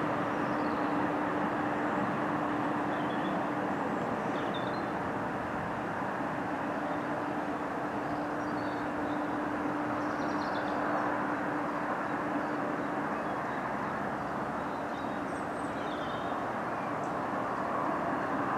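Freight train of enclosed car-carrier wagons rumbling steadily along the track as it runs away, with a steady hum in the first few seconds and again midway. Birds chirp now and then.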